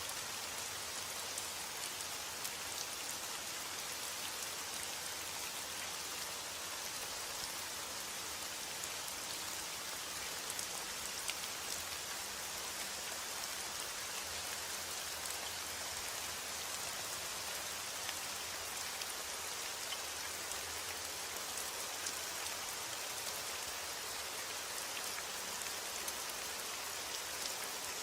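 Steady rain falling, a dense even hiss of drops with small scattered patters.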